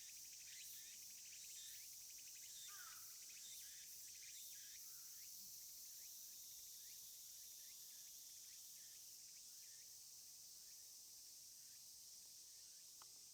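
Faint outdoor summer ambience: a steady high insect drone, with short falling chirps repeating during the first few seconds.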